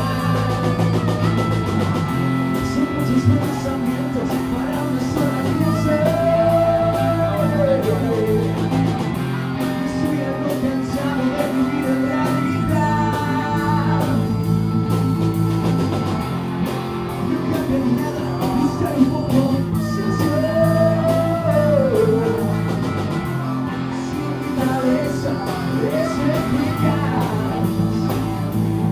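Live blues-rock band playing: electric guitar, bass guitar and drums, with singing over them.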